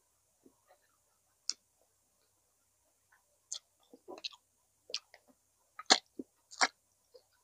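A person chewing food close to the microphone, with irregular wet mouth clicks and lip smacks. They are sparse at first and come more often from about halfway in, with two sharp smacks the loudest, near the end.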